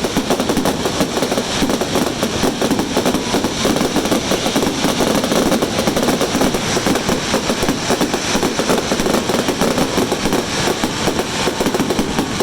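Fireworks going off in a dense, unbroken barrage of rapid bangs and crackling, with no gaps between reports.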